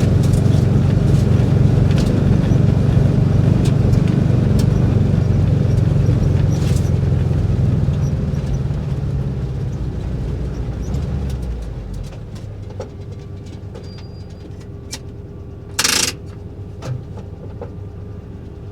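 A 1958 VW bus's engine labouring hard under load on a steep climb, then easing off and dropping to a much lower, steadier running about twelve seconds in. Scattered knocks and rattles run throughout, with one short loud burst of noise near sixteen seconds.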